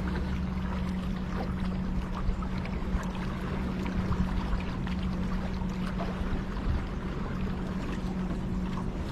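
A motor running at a steady, even hum under a constant rushing noise, with a few light clicks and knocks scattered through.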